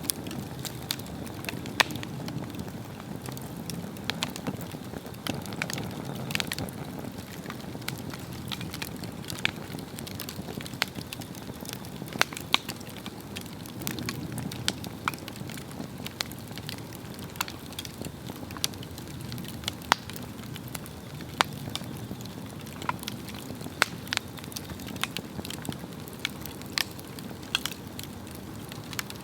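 Swedish torch log fire burning, a steady low rush of flame with frequent sharp, irregular crackles and pops of the burning wood.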